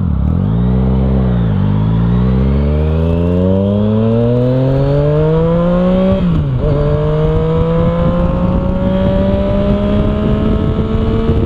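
Yamaha FZ-09/MT-09 inline-three engine breathing through an aftermarket Arrow exhaust with the dB killer removed, pulling under acceleration. The pitch climbs steadily for several seconds, drops sharply about six seconds in as it shifts up a gear, then climbs slowly again.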